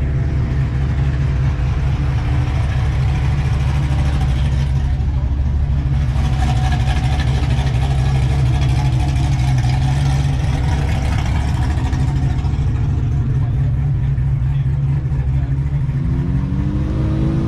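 A car engine running with a steady low rumble. Near the end its pitch rises and falls once, as in a brief rev.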